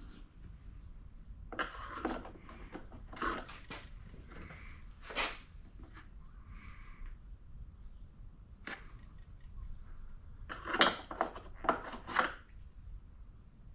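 Scattered knocks, clicks and rattles of hand work on a pancake air compressor's housing and screws during disassembly, loudest in a cluster of knocks near the end.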